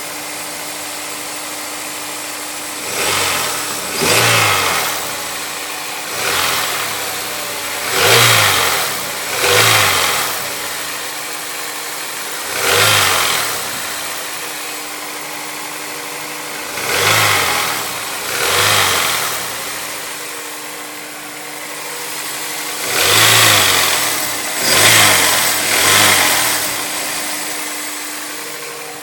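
Honda S2000 four-cylinder engine idling with a steady tone under it, blipped about eleven times, each rev rising and falling back within a second or so, often two in quick succession. It carries a strange sound that the owner cannot identify.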